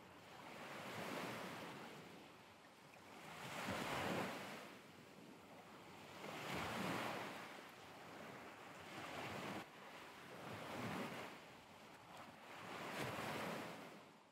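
Faint rush of waves washing, swelling and fading every two to three seconds.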